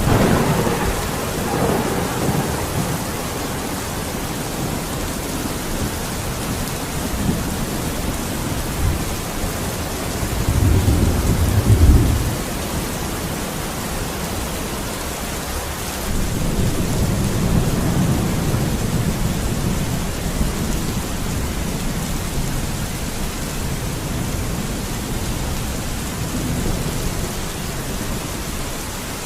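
Steady heavy rain with rolling thunder: low rumbles come and go, the loudest building about ten seconds in and cutting off near twelve seconds, with another long rumble a few seconds later.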